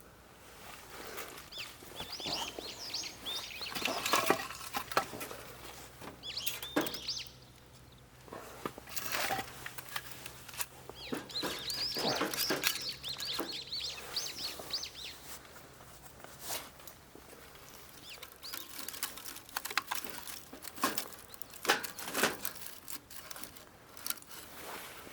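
Small birds chirping and singing in several bursts of quick, high twittering, with scattered sharp clicks and knocks in between.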